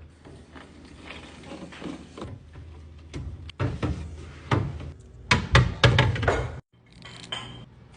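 Containers and food items being handled and set down while restocking a fridge: a run of knocks and clatters, busiest and loudest between about five and six and a half seconds in, over a low steady hum. The sound breaks off for a moment near the end.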